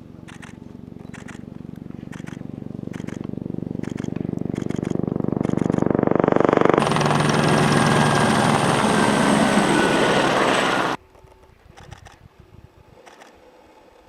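A motor engine hums and grows steadily louder for about seven seconds. It then gives way abruptly to a loud rushing engine noise that cuts off suddenly about four seconds later.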